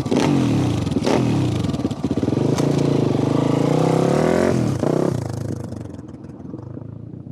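YCF Bigy 190 pit bike's single-cylinder four-stroke engine revving under riding, its pitch rising and falling several times. It climbs once more about four and a half seconds in, then drops to a quieter, fading note.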